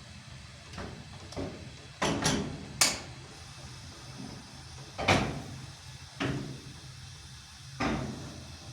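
A series of sharp knocks and clunks, about seven in all, irregularly spaced, with the loudest two close together about two and three seconds in and another about five seconds in, over a steady low hum.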